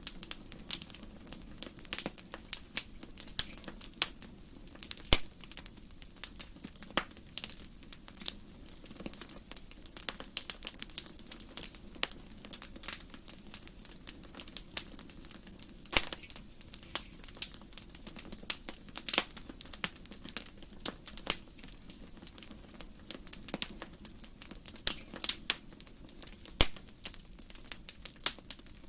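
Wood fire in a fireplace crackling, with irregular sharp pops and snaps over a low steady hiss of the flames.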